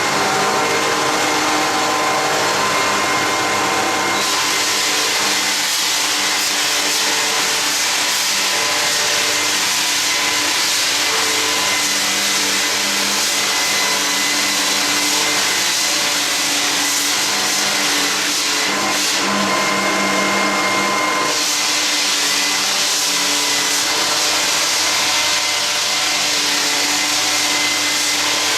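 Belt-type drum floor sander running as it sands an old wooden floor: a loud, steady mechanical whir whose tone shifts slightly a few times as the load changes.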